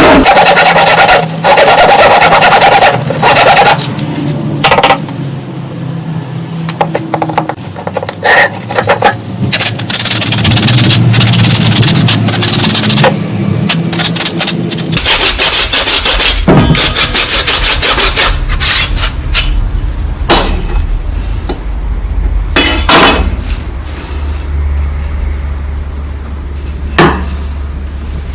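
Loud, irregular scraping and rubbing strokes of abrasive hand work, like filing or sanding. From about halfway through, a steady low hum runs underneath.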